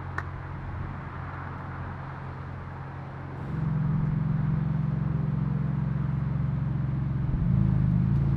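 Porsche 911 GT2's twin-turbo flat-six engine running as the car moves off. It gets clearly louder about three and a half seconds in as it pulls harder, and the note changes briefly near the end.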